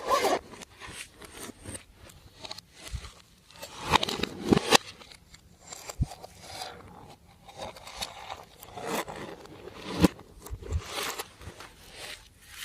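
Slime being handled and mixed, giving irregular clicks, pops and crackles with a few louder pops.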